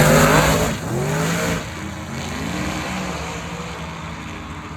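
A drag-racing street car's engine accelerating hard at wide open throttle. Its pitch rises and drops twice as it shifts up, about a second in and again near two seconds in, and then it grows steadily fainter as it moves away.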